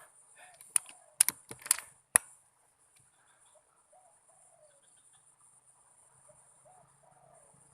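Spotted dove cooing faintly in short low coos, repeating every second or two. A few sharp clicks sound in the first two seconds and are louder than the cooing.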